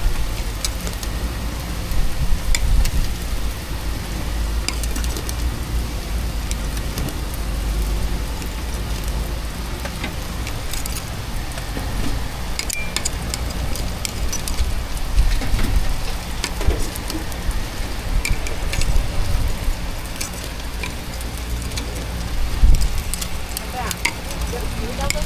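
Food sizzling on a hot street-food grill, with scattered clicks and knocks of utensils over a steady low rumble.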